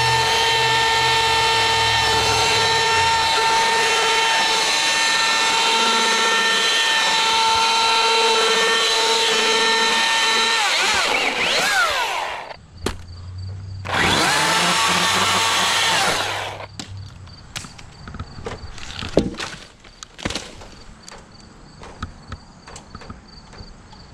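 Milwaukee cordless chainsaw running at a steady high whine while cutting wood for about eleven seconds, then winding down in pitch. It runs again for about two seconds and winds down again, followed by scattered knocks and clicks.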